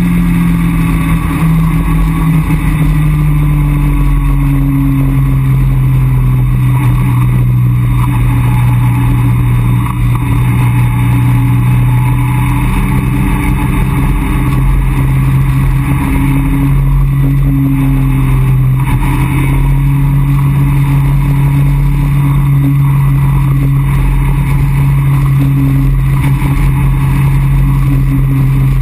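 Caterham Roadsport 175's 2.0-litre four-cylinder engine cruising at steady revs, heard from the open cockpit with wind rushing past. Its note eases down over the first few seconds, then holds steady.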